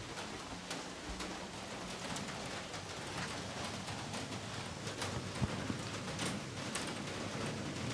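Heavy rain falling steadily, with many individual drops ticking on nearby surfaces and a single louder thud about five and a half seconds in.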